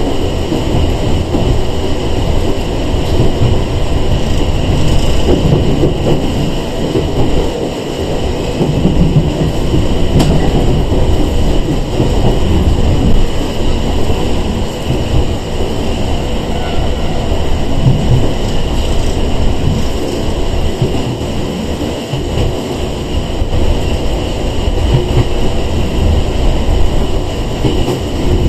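Cabin running noise of a Sangi Railway 101 series electric train (ex-Seibu 401 series) underway: a steady rumble of wheels on rail with a few rail-joint clicks.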